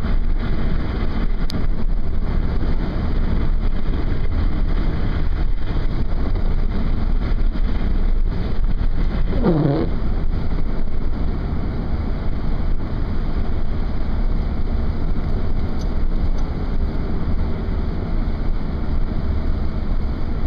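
Strong storm wind buffeting the microphone in a steady, heavy rush, with a brief gliding tone about halfway through.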